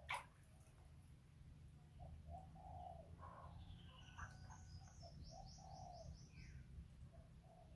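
Faint background birdsong: low cooing notes like a dove, and about halfway through a small bird's quick run of high chirps, over a low steady hum. A sharp click sounds right at the start.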